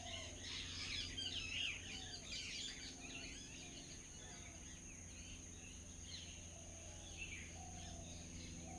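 Several birds chirping and twittering, a busy overlapping chorus for the first three seconds or so that then thins to scattered calls, over a steady faint high-pitched hiss.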